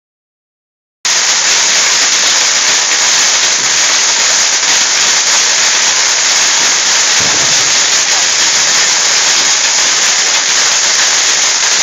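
About a second of silence, then a steady, loud hiss with no distinct bangs or pops.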